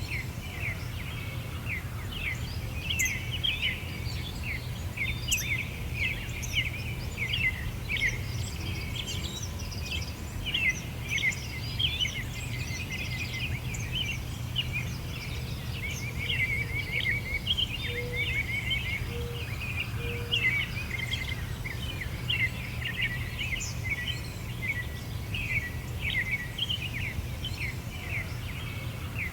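Songbirds chirping and twittering busily, many quick overlapping notes, over a steady low background rumble.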